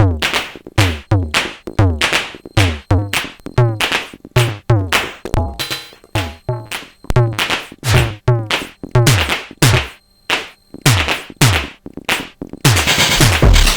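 Sonic Potions LXR-02 digital drum machine playing a sparse pattern of synthesized percussion hits, each a short thump with a falling pitch, about two or three a second, with a brief lull past the middle. Near the end the full techno beat with a heavy kick comes back in.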